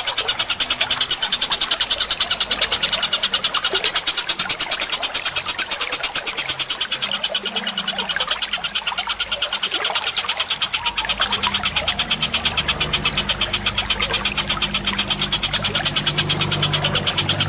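Songbird training track (masteran) of layered sparrow, cucak cungkok and kingfisher calls: a fast, even chattering pulse of about ten beats a second, with a low rumble coming in during the second half.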